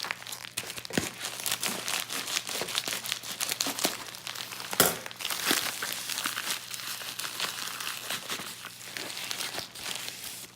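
Packaging wrap crinkling and tearing in irregular crackles as it is pulled off a tube of coins, with one louder snap about five seconds in.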